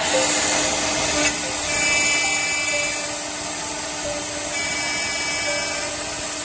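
CNC router spindle running at high speed while drilling and milling a window profile: a steady whine and hiss, with two spells of higher-pitched cutting squeal about two and five seconds in as the tool bites.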